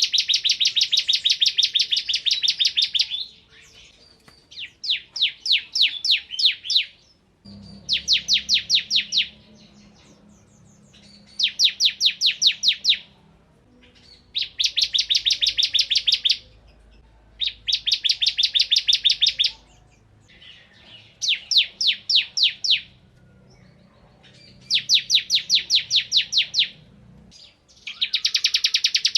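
Bar-winged prinia (ciblek kristal) singing in repeated bursts of rapid, high, trilled notes, each burst lasting two to three seconds with short pauses between.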